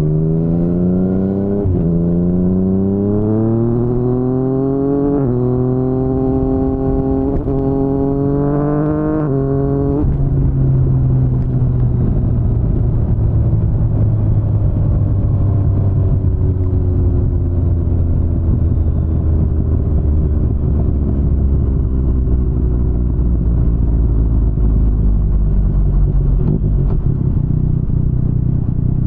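Yamaha MT-09's three-cylinder engine through an Akrapovic full-system exhaust, accelerating hard through the gears: the note climbs and drops back at each of four quick upshifts in the first ten seconds. It then settles into a cruise with the revs slowly easing off, under a heavy rumble of wind noise.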